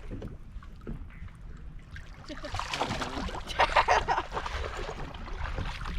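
Wind rumbling on the microphone, with water splashing and sloshing beside the boat starting about two seconds in and loudest near four seconds.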